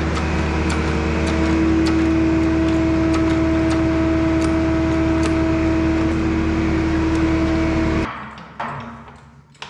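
A motor-driven machine running steadily with a hum of several held tones and light ticks about twice a second. It stops suddenly about eight seconds in, leaving a few faint knocks.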